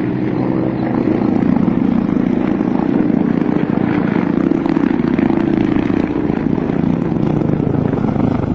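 Attack helicopter, called the 'Akula' (Ka-50 Black Shark), flying close overhead: a steady, loud rotor and engine drone that swells slightly about a second in.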